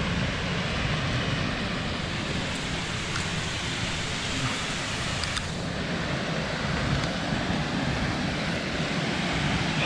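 Steady rushing of a rain-swollen stream pouring over rocks and small waterfalls, with a few faint clicks.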